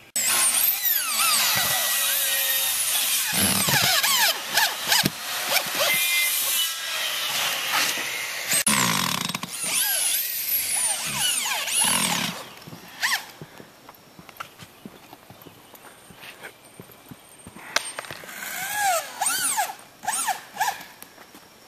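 A power tool running in long bursts, its pitch sweeping up and down, loud for the first twelve seconds, then scattered knocks, and a shorter run near the end.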